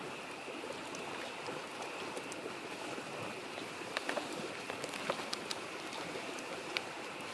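Wood fire crackling, with sharp pops clustered about four to five seconds in, over the steady rush of a small stream and a constant high chorus of frogs.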